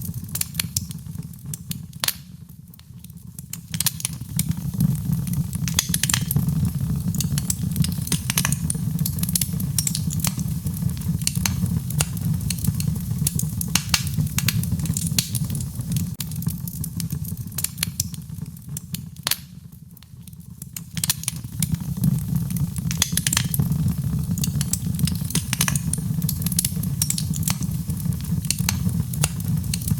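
Fireplace crackling with many sharp pops over a steady low rumble, layered with rain sounds. The sound thins out briefly twice, about three seconds in and again about twenty seconds in.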